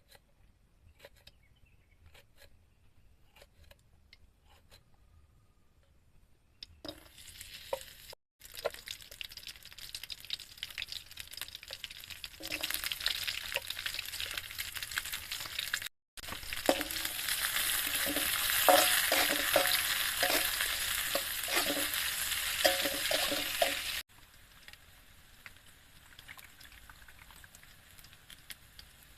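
Food frying in a pan, sizzling and crackling. It starts about seven seconds in and gets louder, with abrupt cuts, and drops to a faint sizzle near the end. A few soft clicks come before it.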